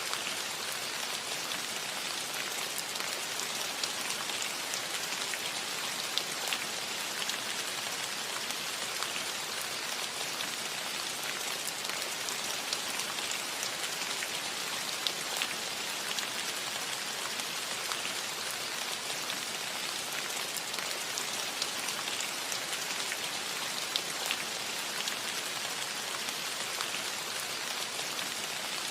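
Steady rain falling on a cottage roof, a dense even patter of drops with many small individual drop hits.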